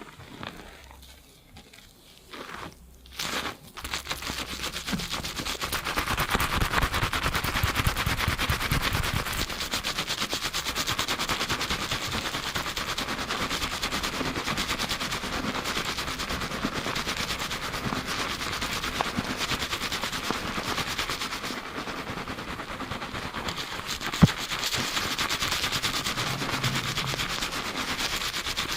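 Fast shampooing: fingers rapidly scrubbing lathered hair and scalp, a dense, quick crackle of foam. It starts in earnest about three and a half seconds in, after a quieter moment with a couple of short rubs.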